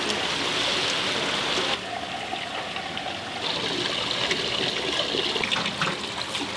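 Running, trickling water, steady apart from abrupt changes in its sound a little under two seconds in and again a little after three seconds.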